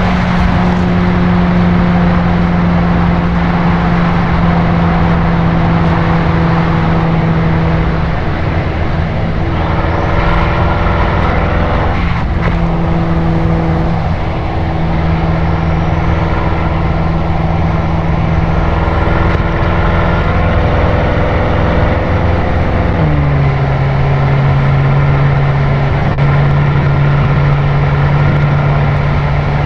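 BMW M6 Gran Coupe's twin-turbo V8 through an Akrapovič Evolution Line exhaust, droning steadily at expressway cruising speed under tyre and wind noise. About two-thirds of the way through, the engine note steps down to a lower steady drone.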